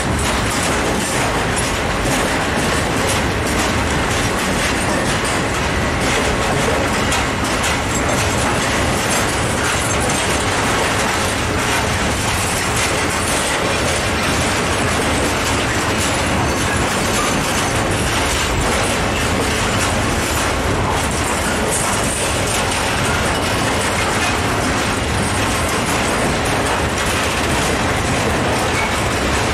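A freight train's loaded open-top coal wagons rolling past at low speed: steady wheel and rail noise with clickety-clack as the wheels cross the rail joints.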